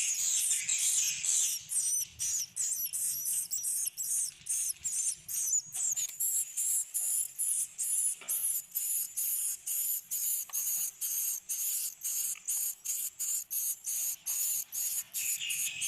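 Swiftlets inside a swiftlet house: a dense, continuous chatter of high chirps and clicks, repeating about three to four times a second.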